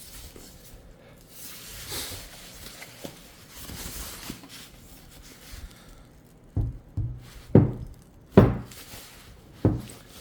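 Soft rustling and sliding of foam packaging as a bookshelf speaker is drawn from its sleeve, then five dull knocks and thumps in the last four seconds as the speaker cabinet is handled and set down.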